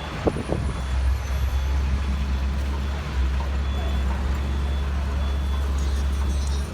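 A heavy vehicle's engine running with a steady low rumble. Two short sharp knocks come about half a second in.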